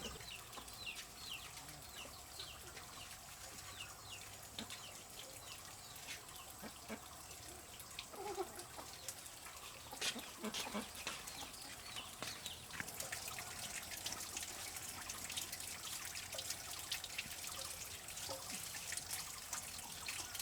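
Chickens clucking and chicks peeping in short falling chirps. About two-thirds of the way through, water trickling and splashing joins in.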